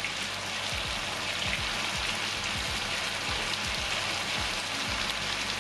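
Spicy chilli sauce with green chillies and bell pepper sizzling steadily in a wok, with scattered soft pops of bubbling.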